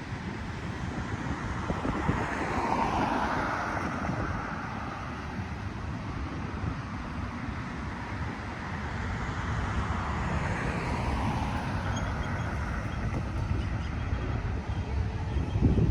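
Steady low rumble of passing vehicles, with wind buffeting the microphone and a loud knock just before the end.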